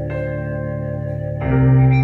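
Instrumental music: sustained organ-like keyboard chords, moving to a new, louder chord about one and a half seconds in.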